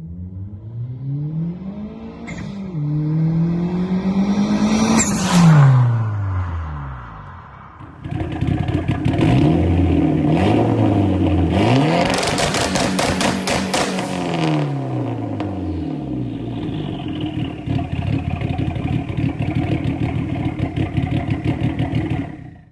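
Mitsubishi Eclipse's 4G63 inline-four revving loud through a straight-pipe exhaust. It climbs and falls back several times, crackling at the top of the highest revs, then drops to a choppy idle.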